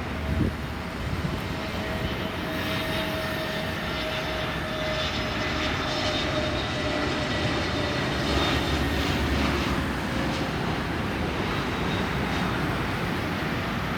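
Airbus A320neo jet engines on final approach, a steady engine noise with a whine that slowly drops in pitch.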